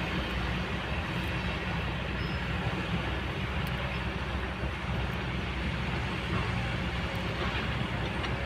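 Kobelco excavator's diesel engine running steadily.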